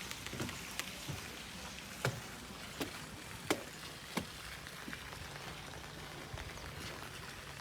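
Steady rain falling, with a few louder single drops or taps scattered through it, some with a short downward slide in pitch.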